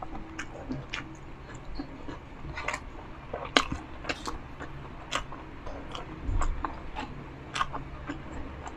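Close-miked chewing and biting of crispy pork, with irregular sharp crunches and mouth clicks every half second or so.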